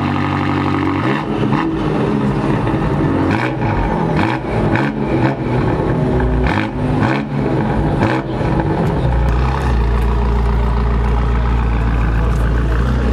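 A car engine running and revving, then settling into a steady, deep running note about nine seconds in.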